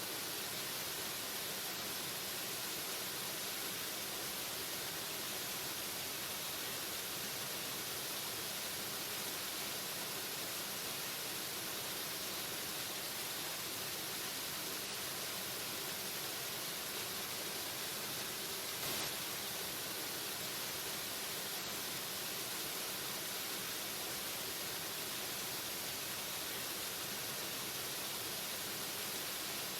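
Waterfall: a steady, unbroken rush of falling water, even across high and low pitches, with one faint brief tick about two-thirds of the way through.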